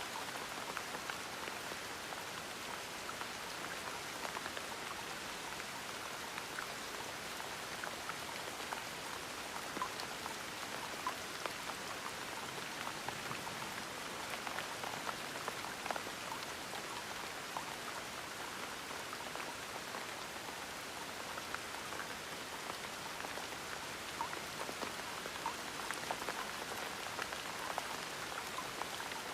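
Steady gentle rain falling on a surface, a continuous hiss dotted with many small distinct drop ticks.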